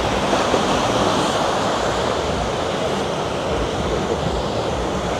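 Ocean surf breaking on a sandy beach, a steady rushing wash, with wind buffeting the microphone.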